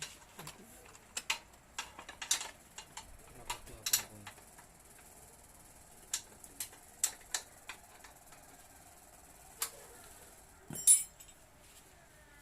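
Irregular sharp clicks and light clinks of small hard parts and hand tools being handled, scattered through, with a louder short clatter near the end.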